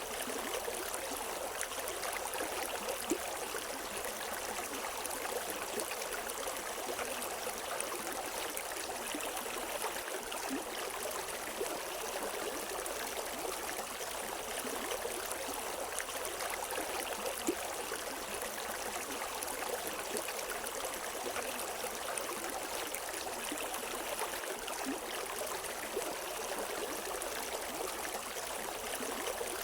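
River water flowing over rocks: a steady rushing and gurgling with small splashes.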